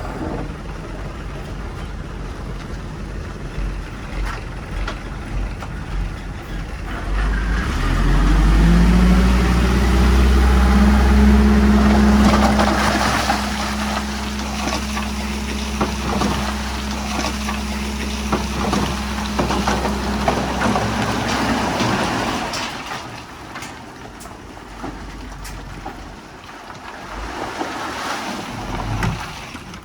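Heavy diesel engine of earthmoving equipment revving up about a quarter of the way in and running hard and steady under load, with a gritty noise of rock and dirt over it. Both drop away about three quarters of the way through, leaving a lower engine sound.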